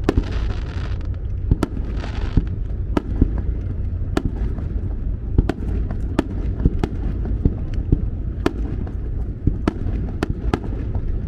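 Aerial fireworks going off in a rapid, irregular string of sharp bangs over a continuous low rumble, with bursts of high hissing crackle in the first couple of seconds.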